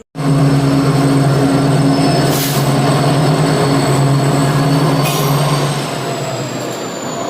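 A passenger train pulling in alongside the platform: a loud, steady low drone that stops about six seconds in, with thin high squeals from the wheels and brakes slowly falling in pitch.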